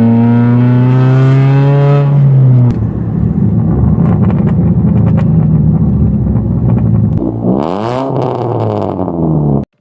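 Proton Gen 2's Campro 1.6 four-cylinder engine revving through an aftermarket exhaust with a 4-2-1 extractor and a JS Racing muffler. The pitch climbs steadily for the first two and a half seconds, a rougher stretch follows, then another rev rises and falls before the sound cuts off suddenly near the end.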